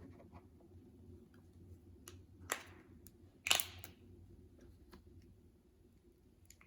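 Slime being handled: scattered faint clicks, then two louder short crackling squelches about a second apart, the second the loudest.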